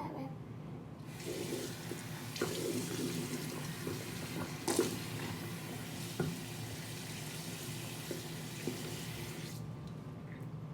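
Water running, starting about a second in and cutting off near the end, with a few short knocks along the way.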